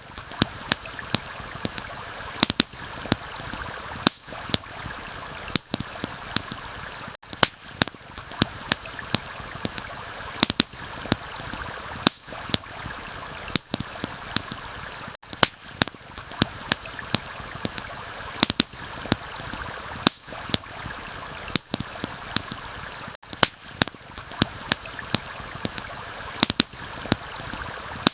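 Campfire crackling with irregular sharp pops and snaps over the steady rush of a flowing stream. The sound drops out briefly about every eight seconds.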